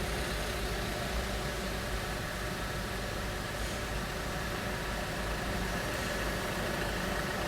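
Steady drone of car engines idling on a ferry's enclosed car deck, a constant low rumble with a hum over it.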